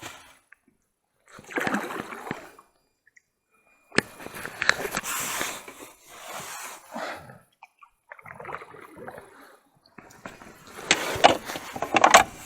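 A rowboat is being rowed: the oars splash and slosh through the water in repeated strokes about every two seconds. The loudest splashing and knocks come near the end.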